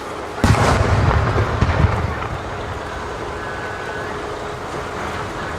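Aerial fireworks: a sudden deep boom about half a second in that rumbles on for a second or so, then fades to a steady background rumble.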